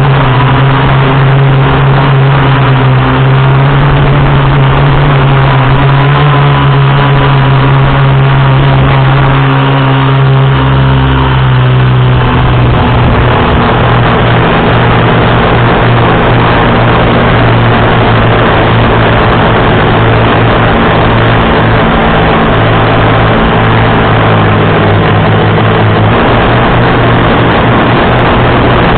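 FPV quadcopter's electric motors and propellers humming steadily and loudly, the pitch of the hum shifting about twelve seconds in as the throttle changes.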